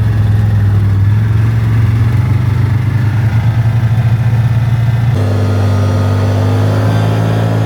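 Car engine running while driving, a steady low hum that shifts abruptly to a new pitch about five seconds in, then rises slowly.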